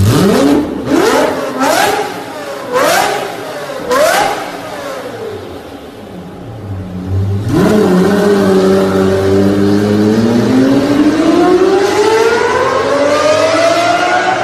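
Lamborghini Murciélago V12 with an aftermarket exhaust, blipped sharply five times in quick succession, then settling to idle. Around halfway through it pulls away under load, its pitch climbing steadily.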